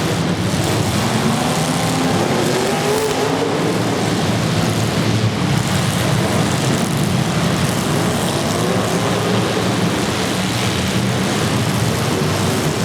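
Demolition derby car engines running and revving together in a loud, steady din, with engine pitches rising and falling throughout.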